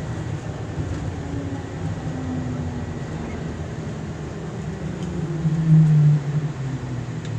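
Airport people-mover tram running, a steady rumble with motor hum whose pitch falls as it slows toward its stop, swelling louder for about a second near the end.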